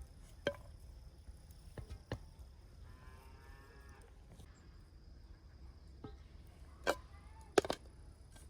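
A cow mooing once, a drawn-out call about three seconds in, among scattered sharp knocks and clicks, the loudest two near the end.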